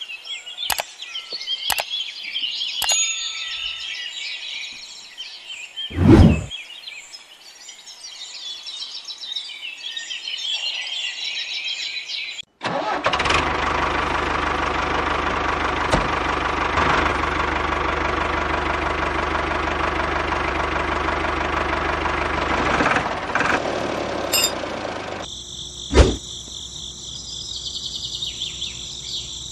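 Birds chirping with a couple of thumps, then, after a sudden cut, a small engine running with a steady drone for about ten seconds, then insects chirring steadily.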